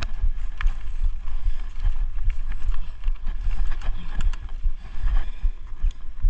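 Continuous low rumbling buffeting on a chest-mounted GoPro's microphone, with scattered clicks and rattles throughout.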